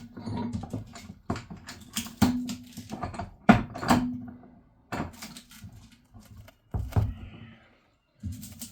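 Irregular knocks and clanks as the cut-open metal tank of an instant hot water boiler is pried and worked by hand, some strikes leaving a brief low ringing.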